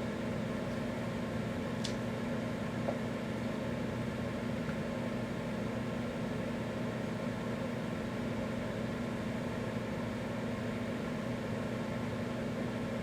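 Microwave oven running: a steady hum with a constant low drone. There is a single faint high tick about two seconds in.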